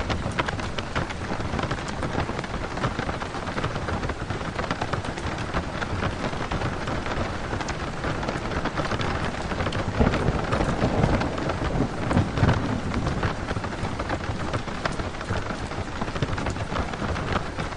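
Rain pattering on the roof of a camper van, heard from inside: a dense, steady patter of close drop ticks over a low rumble, swelling slightly a couple of times in the middle.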